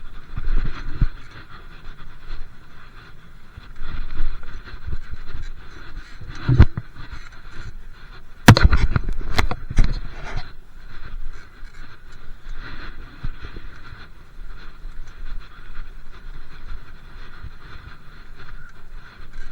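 Riding noise from a bike: wind on the microphone and steady rattling, with a single sharp knock about six and a half seconds in and a cluster of loud knocks and clatters from about eight and a half to ten seconds in, as over bumps.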